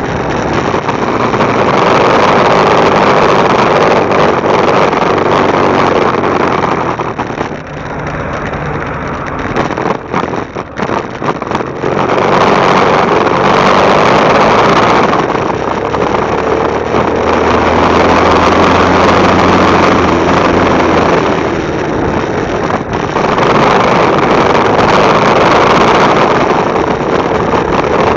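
Motorcycle riding: the engine running under loud wind rush on the bike-mounted camera's microphone, swelling and easing, with a lull of a few seconds about a third of the way in.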